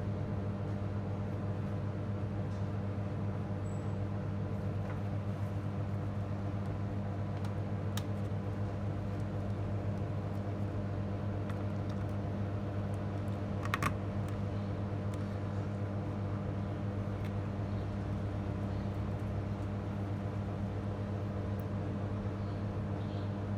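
Steady low electrical hum, with a faint click about eight seconds in and a sharper double click around fourteen seconds in.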